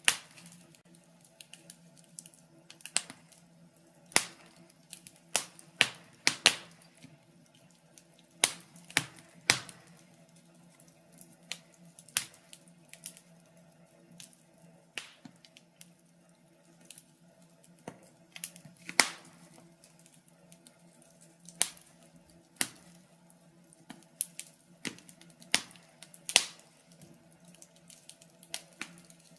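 Wood fire crackling in a fireplace: irregular sharp pops and snaps, often a second or less apart, over a faint steady hum.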